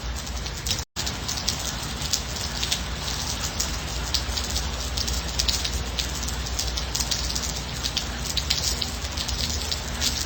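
Steady rain with many close raindrops pattering over a low rumble. The sound cuts out completely for an instant just under a second in.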